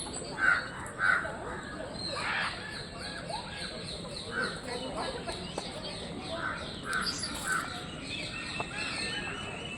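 Captive birds calling in an aviary: constant rapid chirping from many small birds, with several louder short calls rising above it, the first two about half a second and a second in.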